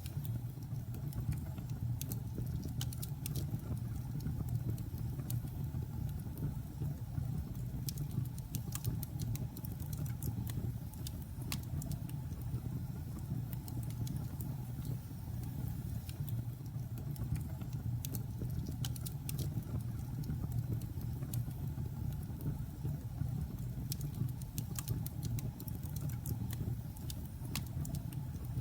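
Logs burning in a fireplace: a steady low rumble from the fire with irregular sharp crackles and pops scattered throughout.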